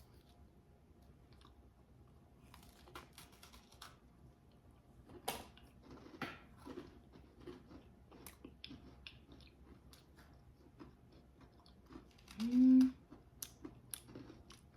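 People chewing and biting into sandwich cookies, with scattered crunches and mouth clicks. About three-quarters of the way through comes one short hummed "mm", the loudest sound.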